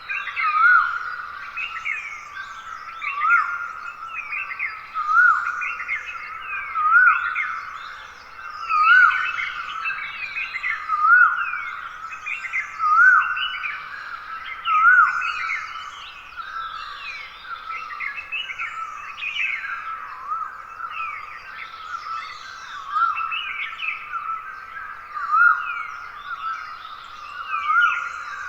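Dawn chorus of wild forest birds: many overlapping chirps and calls, with one bird repeating a short rising note about every two seconds.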